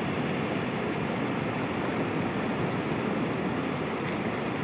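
Sea surf washing steadily on the shore.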